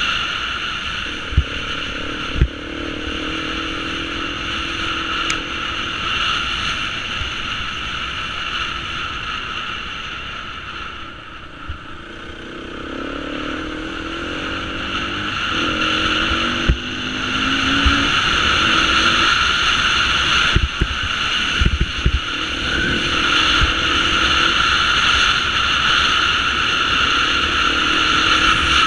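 Beta 350 enduro motorcycle's four-stroke single-cylinder engine running while ridden over rough dirt trail, its pitch rising and falling as the throttle opens and closes, easing off about halfway through. A few sharp knocks come from bumps in the track.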